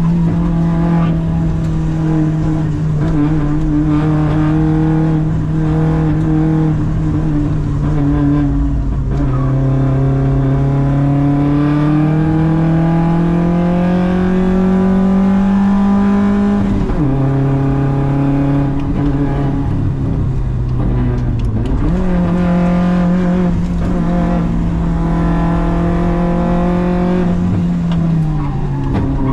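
Audi quattro race car's engine heard from inside the cabin, pulling hard uphill at steady high revs. The pitch climbs slowly, drops sharply at an upshift about halfway, jumps up again at a downshift a few seconds later, and drops at another upshift near the end.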